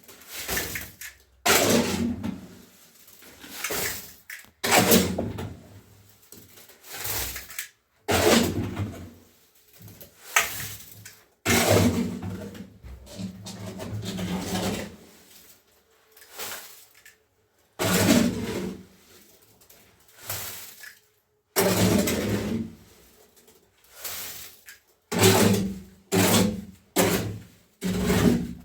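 Repeated scraping or rubbing strokes of a hand tool, about one every one to two seconds, with short silent gaps between some of them.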